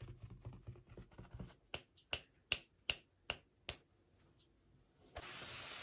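Handling of small toy packaging during an unboxing: a run of soft clicks, then six sharp clicks about two and a half a second. A steady hiss starts near the end.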